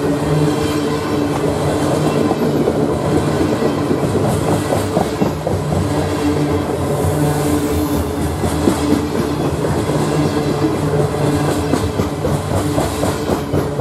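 Loaded coal hopper cars rolling past close by: steel wheels rumbling steadily on the rail with a continuous low drone and rapid irregular clicking as the wheel trucks pass.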